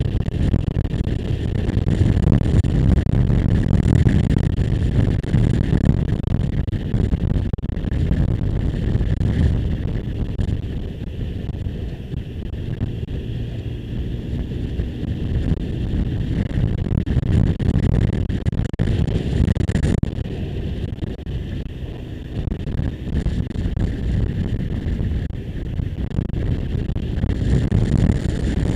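Wind rushing over the microphone of a moving motorcycle, with the bike's engine running underneath. The rush eases a little midway and builds again near the end.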